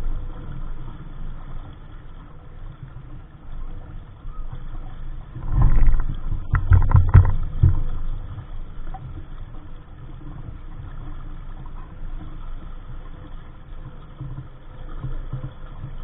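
Wind rumbling on the microphone and water moving along the hull of a small sailboat under way. About six seconds in there is a louder stretch of a second or two with several sharp knocks.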